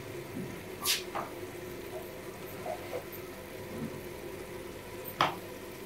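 Onion-tomato masala sizzling and bubbling softly in a clay handi, with sharp clicks about a second in and again near the end.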